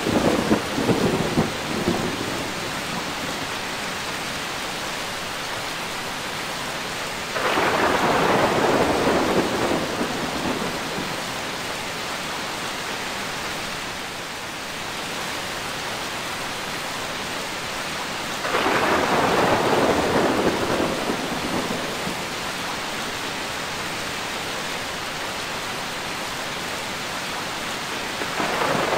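Steady rain with rolling thunder. A rumble fades out just after the start, two more roll in sharply about a quarter and two thirds of the way through, each dying away over a few seconds, and another begins at the very end.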